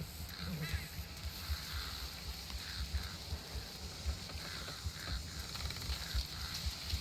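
Layered outdoor nature ambience: a steady high hiss, scattered short animal calls, and frequent irregular low thumps.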